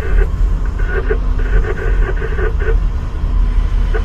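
Diesel passenger train running through a station, with a heavy, steady low rumble. Higher-pitched noise comes and goes in short patches on top of it.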